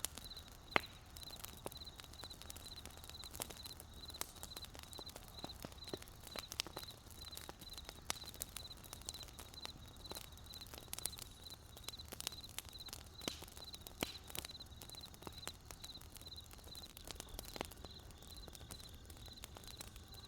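Wood campfire crackling, with irregular sharp pops. Over it a cricket chirps in an even, rapid pulsing trill that fades out near the end.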